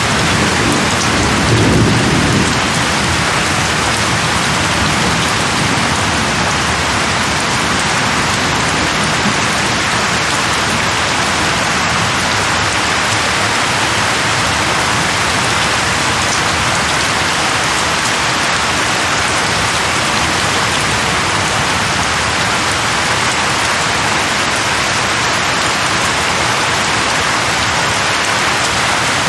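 Heavy rain falling steadily, with a low rumble of thunder about one to two seconds in.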